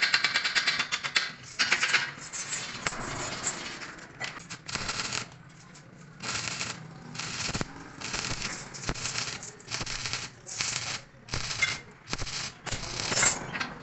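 Electric arc welding crackling on angle iron, a long run at first and then a string of short welds, each a second or less, with brief pauses between them.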